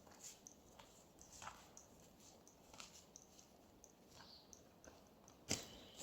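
Near silence with scattered faint clicks and ticks, and one sharper click near the end.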